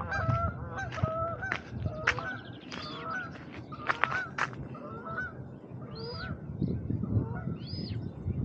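Birds calling with repeated short honking calls in quick succession, mixed with a few sharp clicks; after the middle the calls thin out to a few higher, arched calls.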